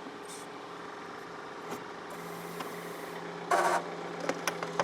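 John Deere 4052R tractor's diesel engine running steadily, powering the 485A backhoe as it digs. About three and a half seconds in comes a loud, short burst of noise, followed by several sharp snaps: the bucket has hit a root.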